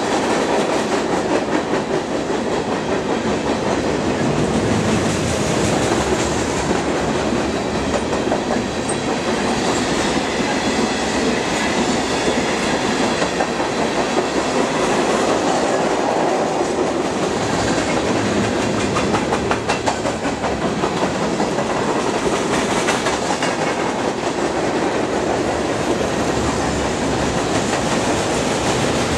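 Freight cars of a mixed manifest train rolling past close by: steady steel-wheel-on-rail noise with repeated clacking of the wheels.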